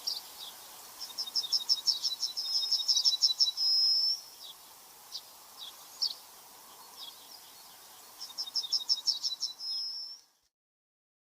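A small bird singing twice: a quick run of high notes ending in a short held note, with single high chips in between. The sound cuts off to silence near the end.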